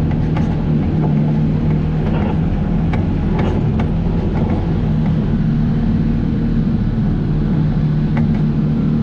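Off-road vehicle's engine running steadily while driving, holding a nearly constant pitch.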